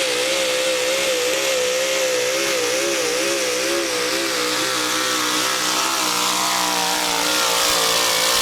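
Modified 4x4 pulling truck's engine running at full throttle under load on a sled pull. Its pitch wobbles up and down, then sags slowly in the second half as the sled bears down.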